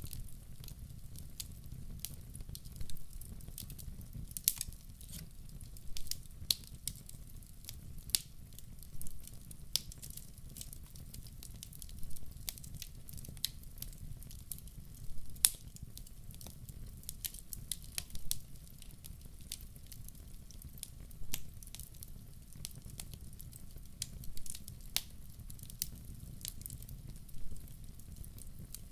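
Wood log fire burning in a fireplace, crackling with irregular sharp pops, a louder snap every second or two, over a low steady rumble.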